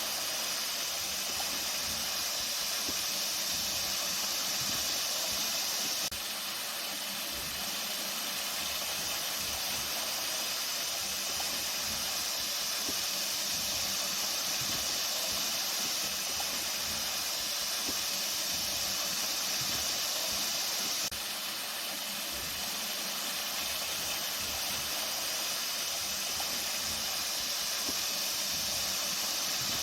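Flowing water rushing steadily, an even hiss with no breaks, dipping slightly in level twice.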